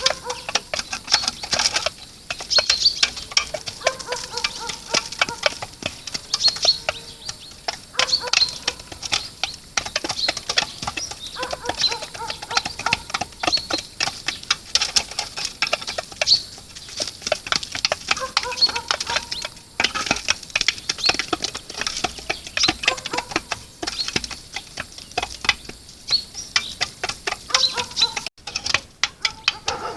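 Birds at a grain feeder: a dense run of quick pecking and scratching clicks, with a falling call repeated every few seconds.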